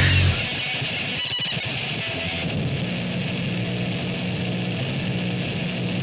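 The heavy band music cuts off abruptly just after the start. It leaves a steady droning noise with a low hum and hiss, the sound of guitar amplifier noise and feedback left ringing at the end of the song.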